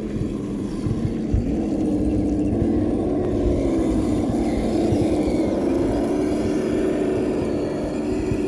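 Kyosho Blizzard RC tracked vehicle's electric motor and drivetrain whining, the pitch wavering up and down as the throttle changes, over low rumble and irregular thumps.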